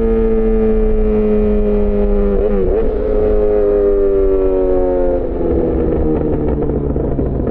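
Yamaha XJ6 S inline-four engine through an SC-Project aftermarket exhaust, slowing down: the engine note falls steadily, jumps up after a quick downshift about two and a half seconds in, then falls away to a lower, steadier note a little past halfway.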